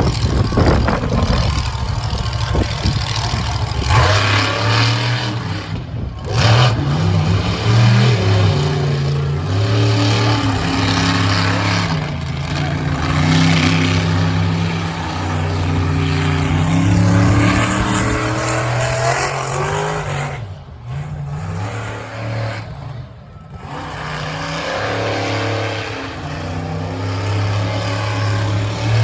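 Monster truck engine revving hard, its pitch rising and falling again and again as the driver works the throttle through a qualifying run. The engine eases off twice in quick succession about two-thirds of the way through, then picks up again.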